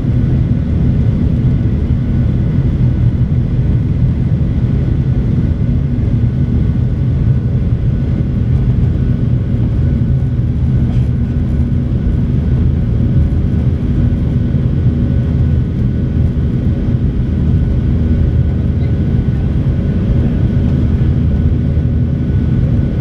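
Boeing 737-800's CFM56 jet engines heard from inside the cabin: a steady, loud low rumble with a few faint steady hums on top.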